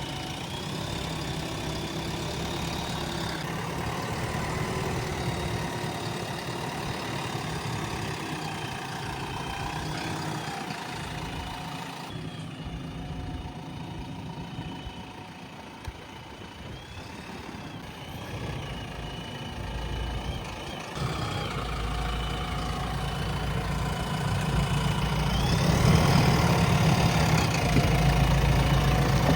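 Backhoe loader's diesel engine running steadily, getting louder near the end as it is revved up.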